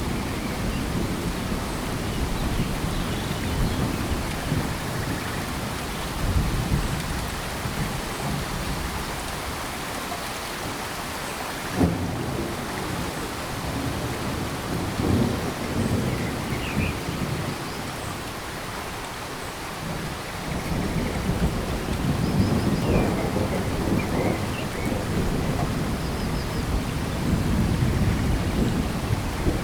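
Steady rain falling in a tropical forest, with deep low rumbles that swell and fade, loudest in the last third, and a single sharp knock about twelve seconds in.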